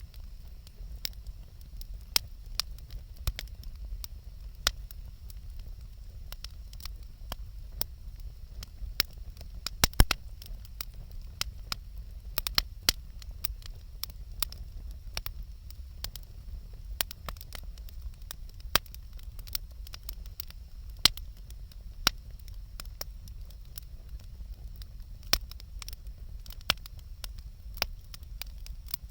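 Wood bonfire crackling, with irregular sharp pops and snaps over a low steady rumble; the loudest pop comes about ten seconds in.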